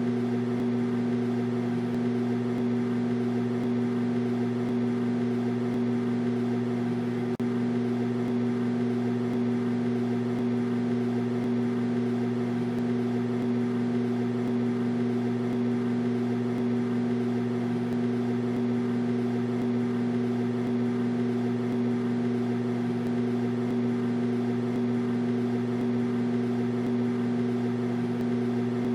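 Microwave oven running: a steady, unchanging hum.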